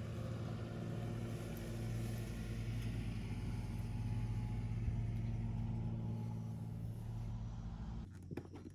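A steady low motor hum, like an engine running, that drops away abruptly near the end.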